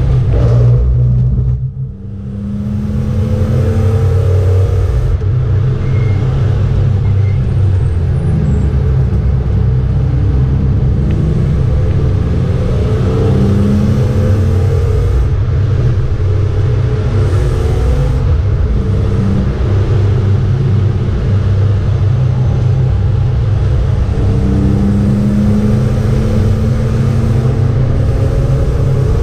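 BMW 325 E36's straight-six engine running hard, heard from inside the cabin, with a brief dip in loudness about two seconds in before it pulls steadily again.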